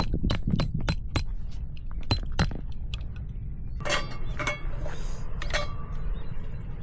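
A quick run of sharp clicks, then a few ringing clinks of hard items such as glass or metal tableware about four to five and a half seconds in.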